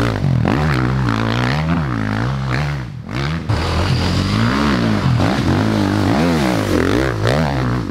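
Enduro dirt bike engine revving up and down as the throttle is worked, its pitch rising and falling about every half second to second, with a brief drop in the engine sound about three seconds in.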